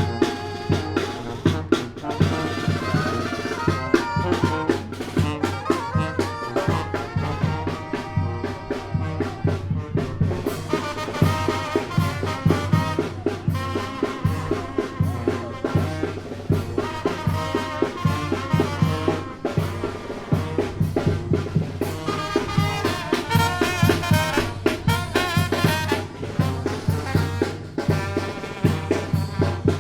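Tamborazo band playing: trumpets and trombones carry the tune over a steady beat on the tambora bass drum.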